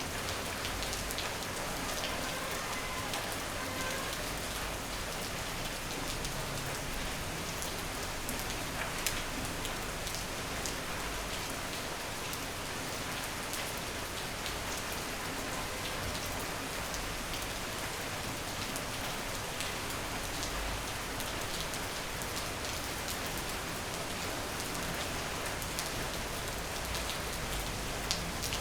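Steady rain falling, an even hiss dotted with sharper drop ticks, one louder tick about nine seconds in.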